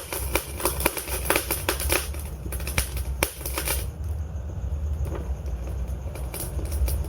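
Wood fire crackling: rapid sharp pops and snaps of burning logs over a steady low rumble. The pops come thick for about four seconds and then thin out.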